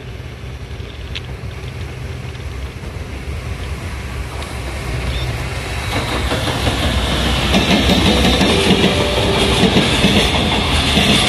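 Freight train hauled by an EF210 electric locomotive approaching on the line, its wheels rumbling and clattering on the rails and growing steadily louder, much louder from about halfway through.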